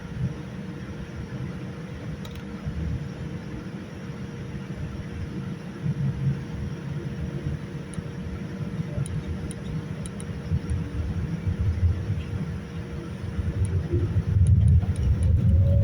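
Boeing 787-9 airliner heard from inside the economy cabin: a steady low rumble of engines and airflow with a faint constant hum. The rumble grows louder near the end.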